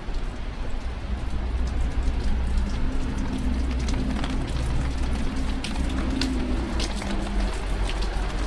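Steady rain falling, with many sharp ticks of drops striking close by over a low rumble. A low steady hum joins about two seconds in and fades near the end.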